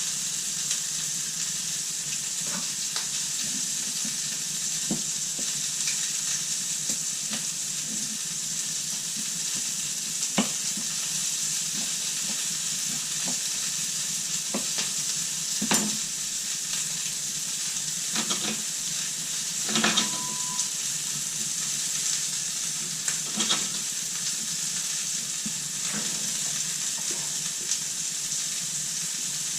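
Food sizzling steadily in a hot frying pan, with occasional knocks and scrapes of a utensil against the pan as it is stirred or turned.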